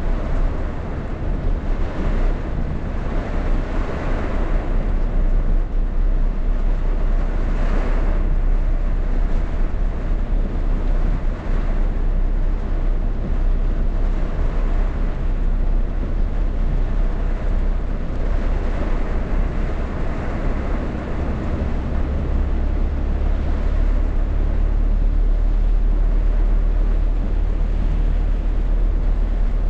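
Heavy rainstorm: rain pouring steadily while strong wind buffets the microphone with a deep rumble, in gusts that swell and fade.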